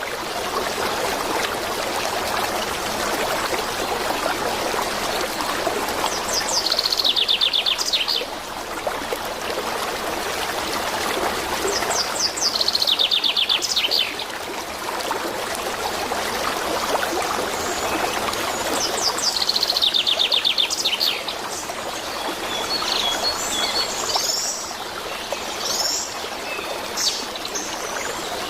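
Running water makes a steady rushing, while a songbird sings the same short phrase three times, about six seconds apart: a quick series of notes falling in pitch. Scattered chirps follow near the end.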